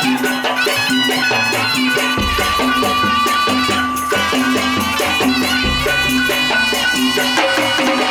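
Madurese daul (tong-tong) percussion ensemble playing a fast, steady rhythm, with rattling percussion under a sustained pitched melody.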